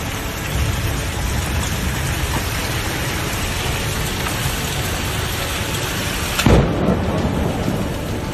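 Heavy storm rain and wind noise, steady throughout, broken about six and a half seconds in by a sudden loud crack with a short rumble after it.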